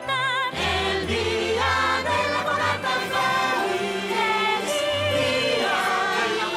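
Festive Christmas song with a choir singing over orchestral accompaniment.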